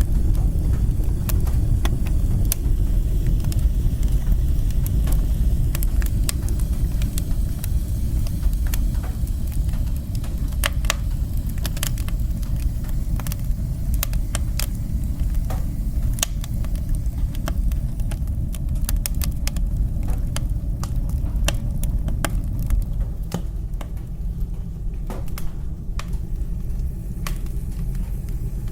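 Wood fire burning in a fireplace: a steady low roar with frequent sharp crackles and pops at irregular intervals. The roar eases slightly about three-quarters of the way through.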